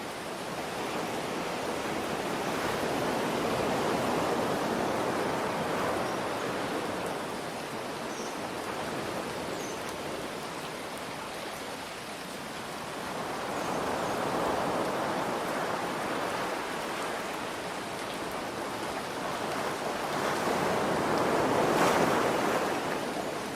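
Ocean waves washing in over steady rain, three swells about eight to ten seconds apart, the last one the loudest.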